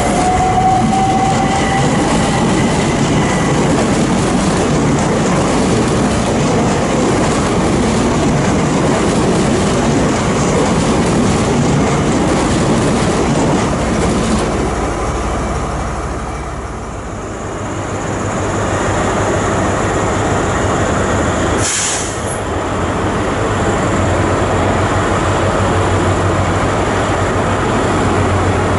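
A train running on the rails, a steady loud rumble and rush of wheels on track that dips briefly past the middle. There is one sharp crack a little after that, and a steady low hum near the end.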